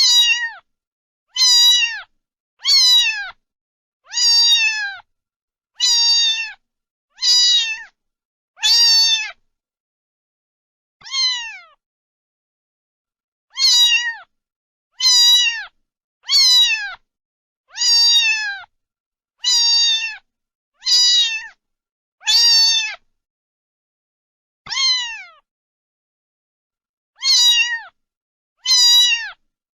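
A cat meowing over and over, about eighteen short meows in a row, each one falling in pitch. There are a couple of longer pauses between the runs.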